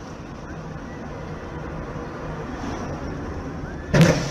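Steady road and engine noise of a moving car, then a sudden loud bang near the end, likely a collision.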